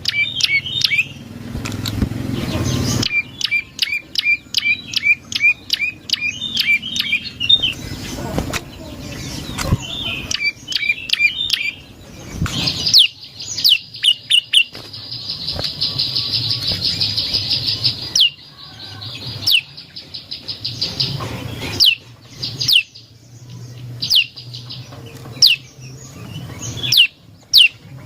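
Prenjak lumut songbird calling: rapid chirping trills, then about halfway through a long buzzing trill lasting several seconds, followed by a run of sharp, high downslurred notes repeated every second or so.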